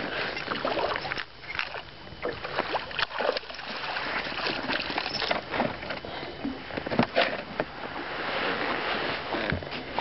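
Water splashing and sloshing against the side of a fishing boat, with irregular knocks and clicks of handling in the boat as a hooked fish is landed.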